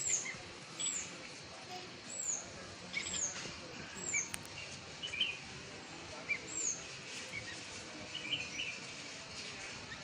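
Songbirds calling: a thin, high note that sweeps downward, repeated about six times at uneven gaps, with lower short chirps in between.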